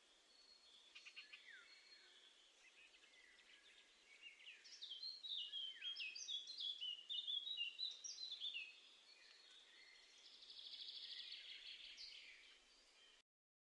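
Small garden songbirds singing and calling over a faint hiss: a run of quick, high, downward-sliding notes about five seconds in, then a buzzy trill near the end. The sound cuts off suddenly just before the end.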